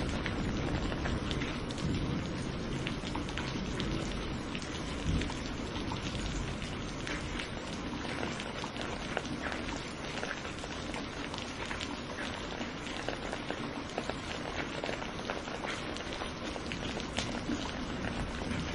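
Steady rain falling, with many small drops ticking on a surface. A low rumble of distant thunder at the start fades over the first few seconds.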